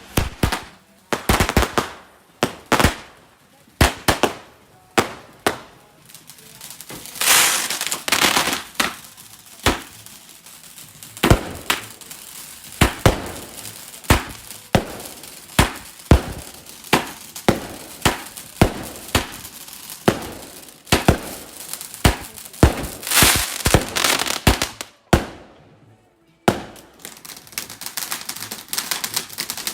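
Fireworks display: a long run of loud firework bangs, mostly about one a second, with short echoing tails and a few longer hissing, crackling bursts. Near the end the sound drops out briefly, then gives way to a dense rapid crackle.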